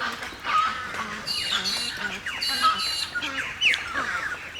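Many birds squawking and calling over one another: a dense chorus of short, falling, overlapping calls.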